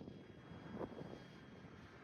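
Twin electric ducted fans of an E-flite Airbus A320 radio-control model jet in flight, a faint steady whine over wind rumble on the microphone, with one brief louder bump about a second in.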